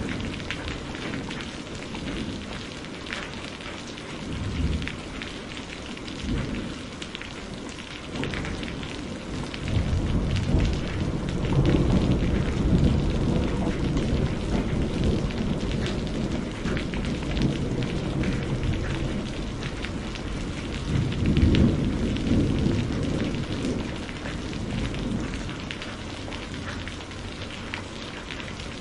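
Steady rain falling, with rolling thunder rumbling low underneath that swells up twice, about a third of the way in and again past the middle.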